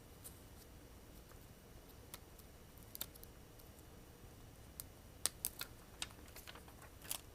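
Faint, scattered small clicks and taps of fingers handling adhesive strips and phone parts, with a cluster of sharper clicks about five seconds in and another near the end.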